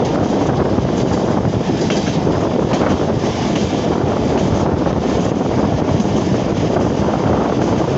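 Pakistan Express passenger train running at speed, heard from beside its coach: a loud, steady rumble of wheels on rail, with wind on the microphone.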